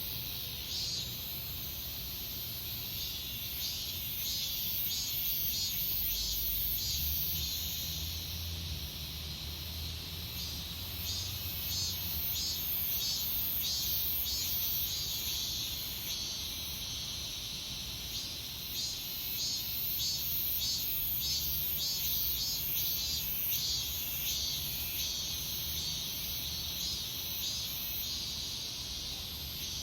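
Cicadas singing in chorus: a steady high buzz with a rhythmic, regularly pulsing call over it.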